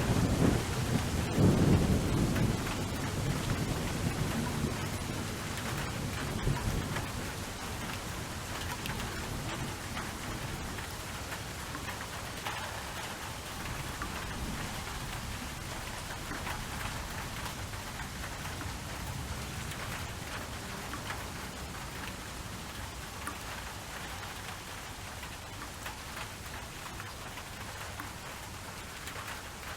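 Steady rainfall with a patter of drops, and a roll of thunder rumbling away over the first few seconds.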